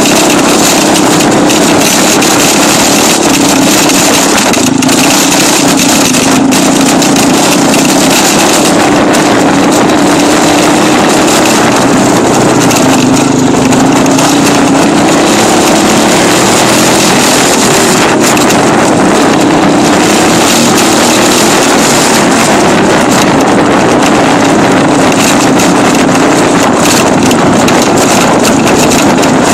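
Dirt bike engine running loudly at fairly steady revs, its pitch drifting slowly up and down over a dense hiss.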